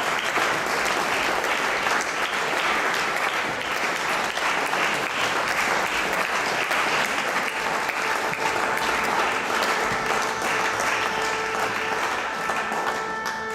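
Audience applauding, dense steady clapping. A little past halfway, faint held instrument notes begin to sound under the clapping.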